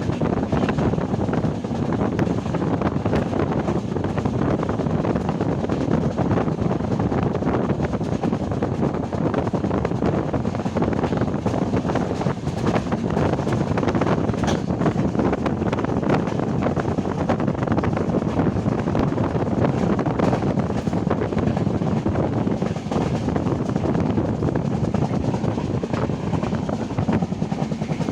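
Passenger train running steadily, heard from a coach window, with wind buffeting the microphone.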